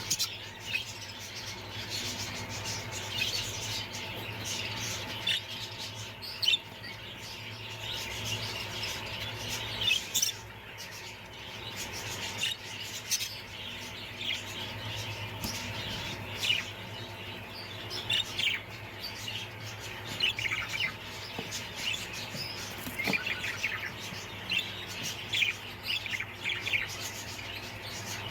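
Parrots chirping and chattering in many short, high calls, several birds overlapping, over a steady low hum.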